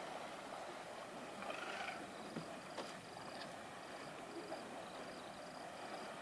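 Outdoor ambience at a waterhole where elephants are bathing: a short burst of water splashing about a second and a half in over a steady hiss, with a faint high chirp repeating from about halfway.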